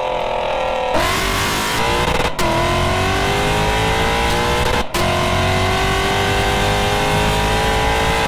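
Lexus RC F's 5.0-litre V8 breathing through long-tube headers, loud as it accelerates hard: the revs climb in each gear, drop sharply at two quick upshifts about two and a half and five seconds in, then climb again.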